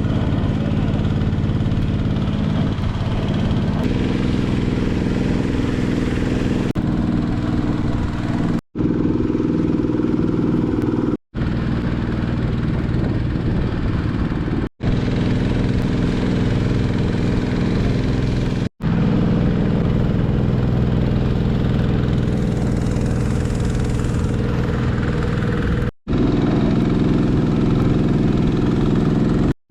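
Small river boat's engine running steadily at cruising speed, cut off abruptly several times and picking up again at the same steady pitch.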